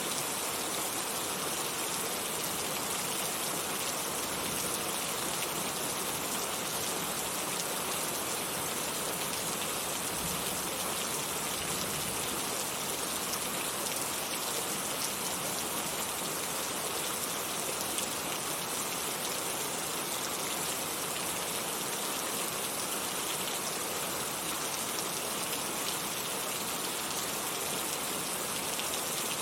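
Heavy rain falling steadily, a dense, even hiss of raindrops hitting surfaces with no distinct drips or thunder.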